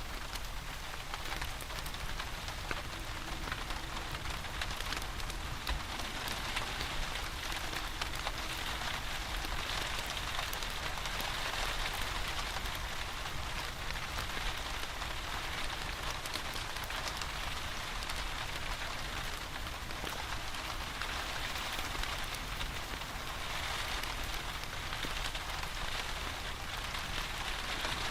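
Steady rain falling, a dense even patter of drops with a low rumble underneath, with no let-up.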